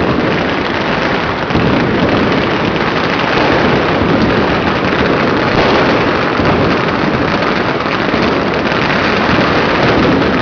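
Fireworks and firecrackers going off all around in a dense, unbroken barrage, so many at once that the bangs blur together into one continuous loud crackle.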